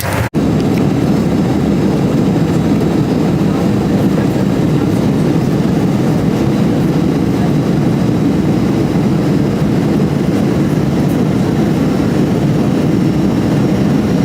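Steady low roar of engine and airflow noise inside an Airbus A320 cabin, broken by a split-second dropout just after the start.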